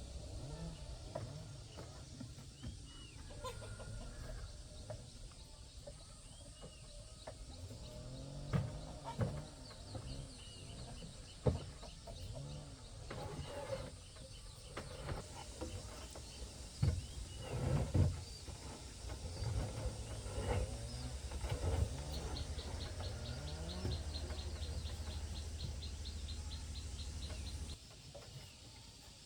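Farmyard birds calling and clucking, with a few sharp knocks among the calls. A rapid high ticking trill comes in the last few seconds, and a low steady hum cuts off suddenly near the end.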